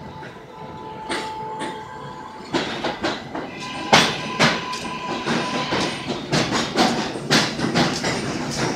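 Passenger train running through the station: a steady whine at first, then, from about two and a half seconds in, wheels clattering over rail joints in a rapid, uneven run of clacks that grows louder.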